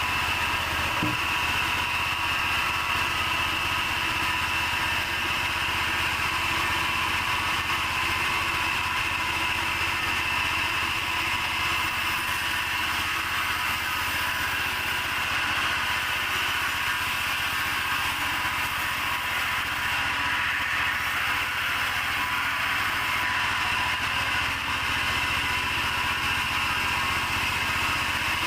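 Sawmill machinery running steadily, with an engine-like low hum under an even high whine that does not change.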